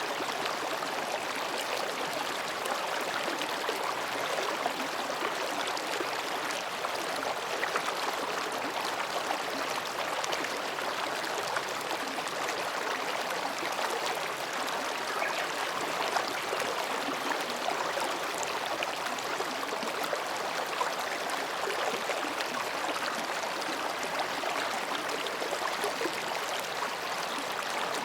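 Mountain stream babbling steadily as it flows between rocks.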